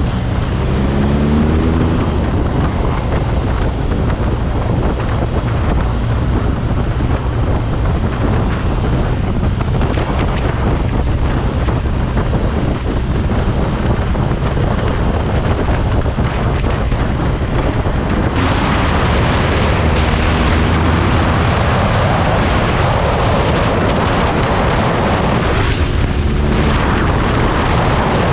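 Heavy wind noise buffeting the microphone while riding a BMW R nineT Urban G/S, whose air/oil-cooled boxer twin runs steadily underneath. The engine's pitch rises as it accelerates just after the start and again near the end. The wind grows louder for several seconds in the second half.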